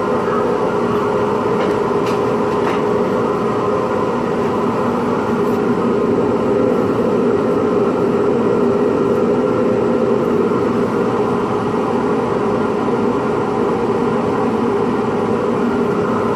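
Jet wood lathe spinning a pen blank at about 3,000 rpm with a dust-collection vacuum running: a loud, steady mechanical drone with a few fixed tones.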